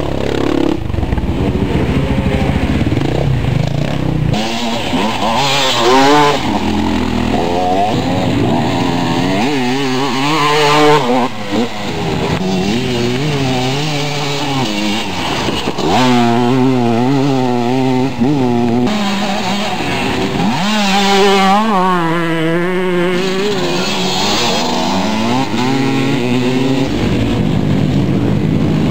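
Motocross bike engines revving hard and dropping back again and again as the bikes ride the track, their pitch rising and falling with the throttle and wobbling over the bumps.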